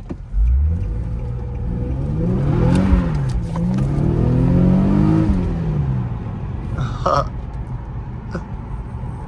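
Nissan VQ-series V6 engine revving up hard under acceleration, heard through open windows: the pitch climbs, drops briefly, climbs again, then falls away. The car is struggling for grip on snow.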